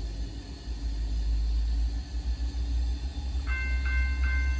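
Low rumble of a passing diesel train. About three and a half seconds in, a warning bell starts ringing at about two and a half strikes a second.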